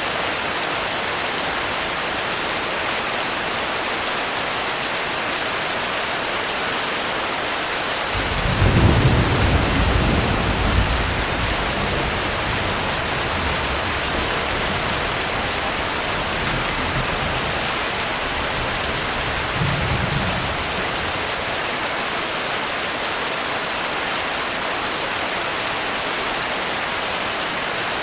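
Steady rain with a roll of thunder coming in about eight seconds in, loudest for a few seconds and then fading out, and a second short low rumble of thunder near the two-thirds mark.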